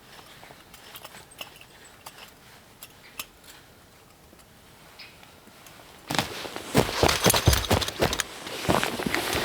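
Camp gear being handled: a few faint clicks, then from about six seconds in a loud burst of rustling and clattering.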